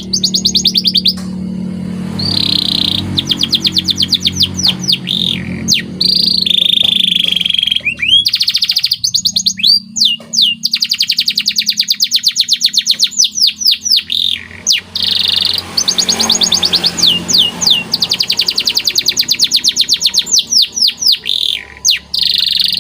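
Male canary singing a long, loud song of fast trills, rolls and rapid repeated chirps, with brief pauses between phrases.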